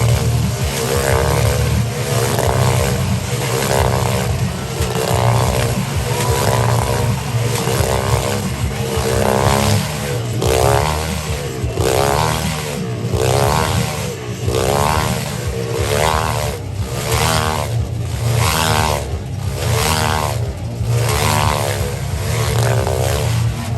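Motorcycle engine held at high revs while the bike rides tight laps around an enclosed track, its sound rising and falling in pitch and loudness about every three quarters of a second as it passes by on each lap.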